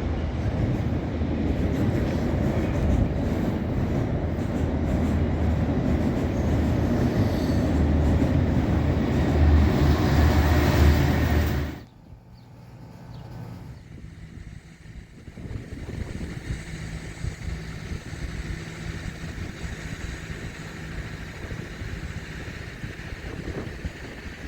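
A loud, steady, low rumble that swells over about twelve seconds and then cuts off suddenly, followed by a much quieter steady rumble.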